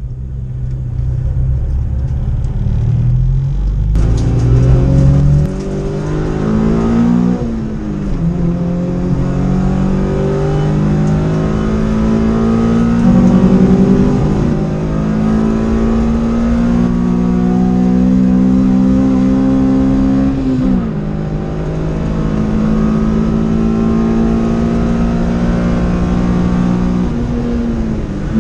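Honda Civic EK's B16A2 1.6-litre VTEC four-cylinder engine heard from inside the cabin. It runs at low revs for the first few seconds, then accelerates hard about four seconds in. The pitch climbs and drops back at the upshifts, with long stretches held at steady high revs.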